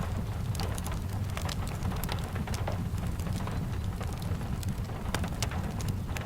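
Steady rain with a low rumble beneath it, mixed with frequent short sharp crackles and pops from a log fire.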